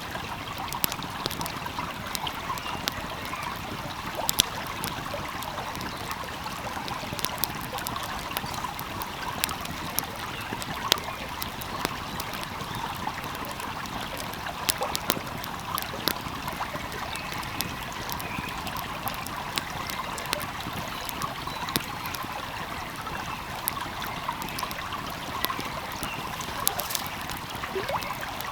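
Wood fire crackling, with sharp pops coming at irregular moments, over the steady rush of a flowing stream.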